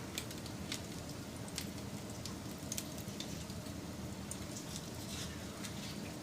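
Wood fire burning: a steady low rumble of flames with irregular sharp crackles and pops, one or two a second.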